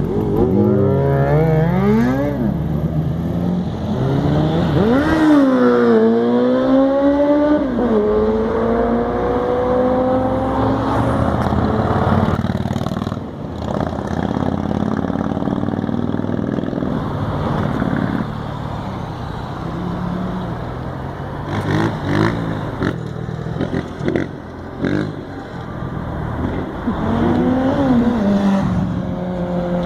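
Sport motorcycle engines revving hard and accelerating, the pitch climbing in several rising runs and dropping between them, with a few quick throttle blips past the twenty-second mark and another rise and fall near the end.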